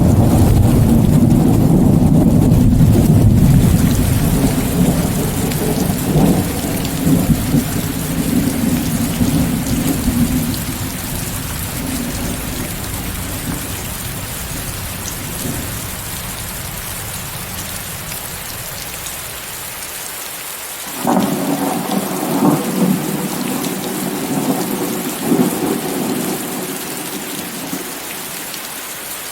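Steady heavy rain hissing, with thunder rumbling: a long low roll that fades over the first third, then a fresh sudden peal about two-thirds of the way in that crackles and dies away.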